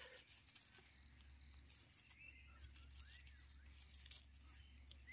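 Faint rustling and crackling of forest-floor litter as wild mushrooms are picked by hand, with a few faint arching chirps near the middle.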